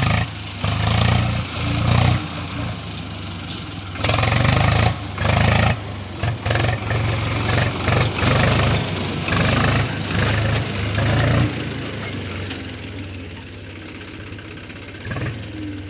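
Tractor's diesel engine running, its sound swelling and dropping repeatedly for the first twelve seconds or so, then settling to a steadier, quieter run.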